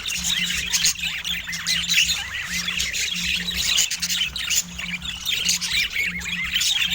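Pet budgerigar chattering: a continuous run of quick, arching chirps and squawks.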